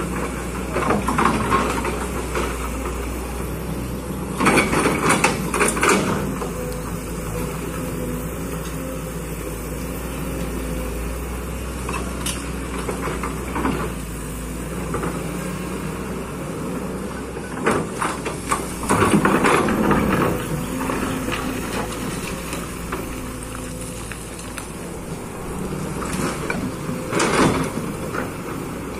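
Kobelco hydraulic excavator's diesel engine running steadily, with three louder spells of rattling noise about four, eighteen and twenty-seven seconds in as the machine works.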